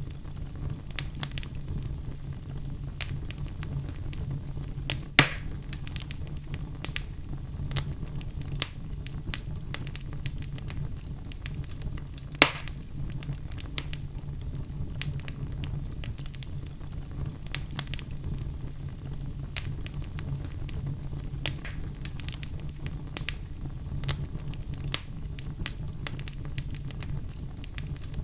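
Wood fire burning in a fireplace: a steady low rumble of flames with frequent small crackles and two louder pops, about five and twelve seconds in.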